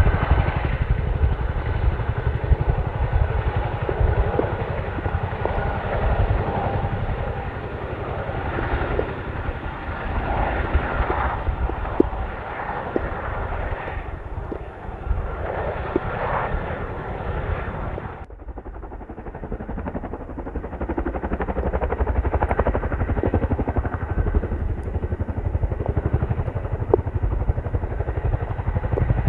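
Boeing CH-47D Chinook's twin-turboshaft tandem rotors beating in flight with a fast, heavy pulsing. The sound drops abruptly about two-thirds of the way through, then grows louder again.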